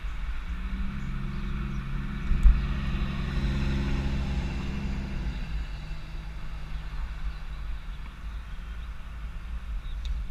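A motor vehicle passing with a steady hum that stops about five and a half seconds in, over low wind rumble on the microphone.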